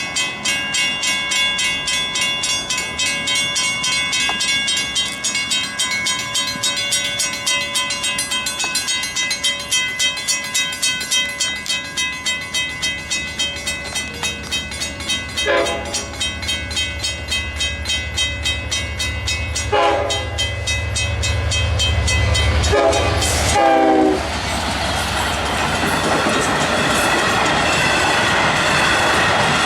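Railroad grade-crossing warning bells ringing in a steady rapid rhythm as an LIRR train approaches, its engine rumble building. The train horn sounds several blasts, the last one longest, and then the train passes with wheels clacking over the rails.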